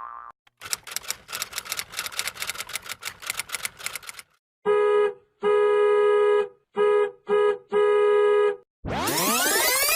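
Stock sound effects one after another. First, about four seconds of rapid typewriter-like key clicking. Then a buzzy electronic beep sounding five times in long and short pulses, and near the end a loud whoosh of many sweeping tones starts.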